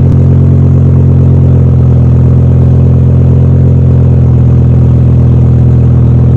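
BMW M6 V10 engine breathing through an Eisenmann aftermarket exhaust, idling at a steady, even pitch.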